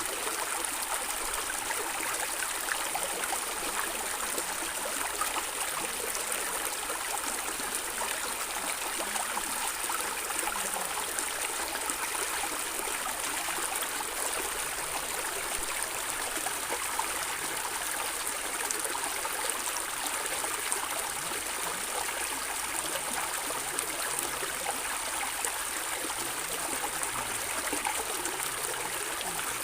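A stream of water running and gurgling in a steady, continuous rush, with many small trickles and splashes.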